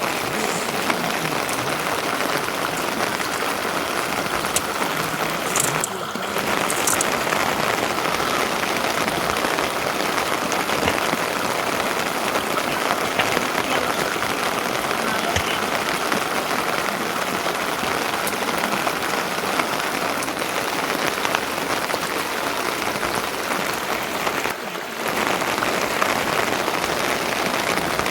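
Steady rain falling and pattering on surfaces, an even hiss with fine drop patter, briefly dipping twice.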